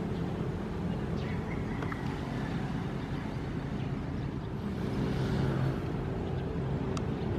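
Ocean waves: a steady low rumble of surf with a faint steady hum in it, and one wave washing in with a swell of hiss about five seconds in.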